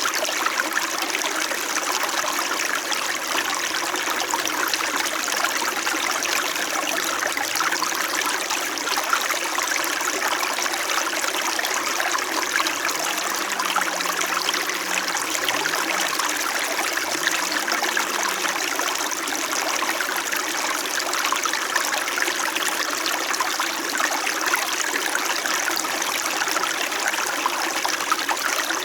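Small mountain brook in winter, flowing steadily with a continuous murmur and trickle of running water.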